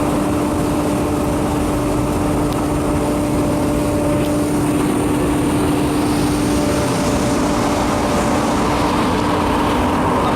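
Biomass sawdust burner running steadily: a loud, even rush of air and fire with a constant low hum from its blower fan.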